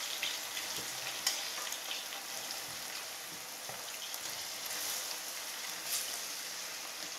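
Snail meat and chopped green onion sizzling in hot sunflower oil in a frying pan as the snails are slid in from a plate, with a sharp tick about a second in and a smaller one near the end.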